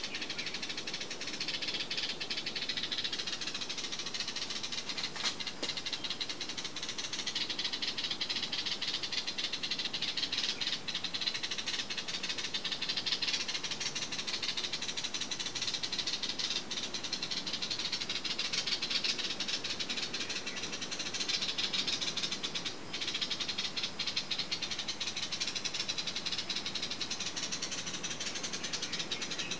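Many small birds chirping and twittering without pause, a dense chorus of high calls.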